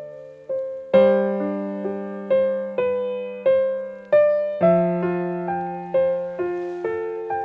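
Slow, gentle solo piano music: single notes about twice a second, each dying away, over low bass notes that are held for a few seconds.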